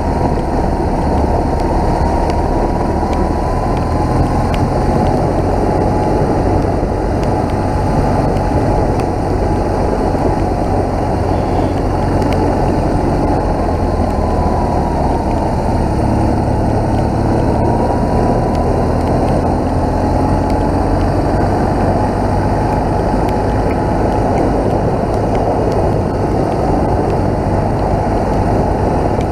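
BMW motorcycle being ridden at a steady pace, its engine running under a constant rush of wind and road noise.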